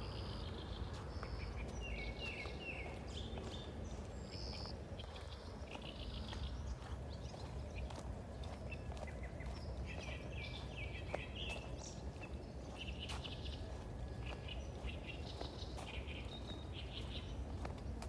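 Small birds chirping and calling again and again over a steady low rumble, with a few faint clicks.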